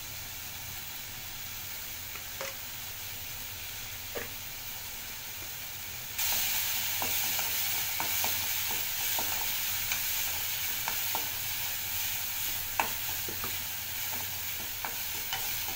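Chopped onions, garlic and tomatoes sizzling as they fry in oil in a kadai, stirred with a metal spoon that clicks against the pan. The sizzle turns much louder about six seconds in, with the clicks coming more often.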